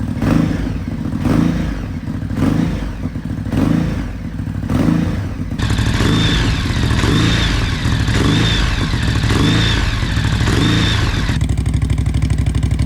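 Ducati Hypermotard 950 SP's L-twin through a titanium VanDemon exhaust with the baffle fitted, blipped repeatedly in neutral. There are about a dozen short revs, roughly one a second, and the engine settles back to a pulsing idle near the end.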